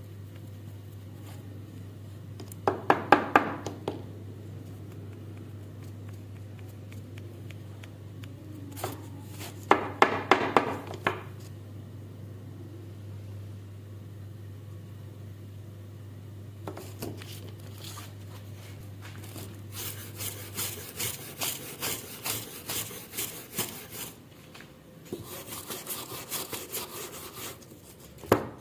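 Rusty steel pliers being worked by hand: two short bursts of rapid scraping strokes, then a long run of rhythmic back-and-forth scraping, about two strokes a second, like filing or brushing off rust, with a sharp knock near the end.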